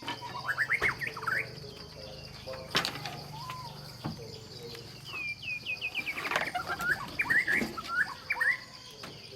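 Small birds chirping in quick runs of short rising notes, with a run of falling notes about five seconds in, over a steady high-pitched insect drone.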